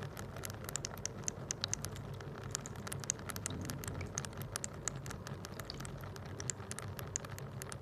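Rain humidifier dripping: many small water drops falling at an irregular pace and ticking into the water in its base, over a faint low hum.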